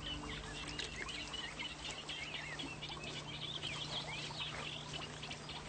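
Birdsong: many small birds chirping and twittering, with a low steady hum underneath.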